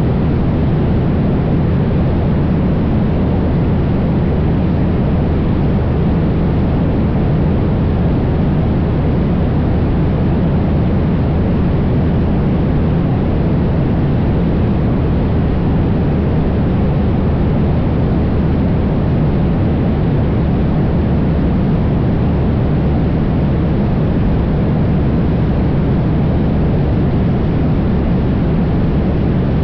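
Cessna 172's piston engine and propeller droning steadily in flight, with a constant rush of airflow.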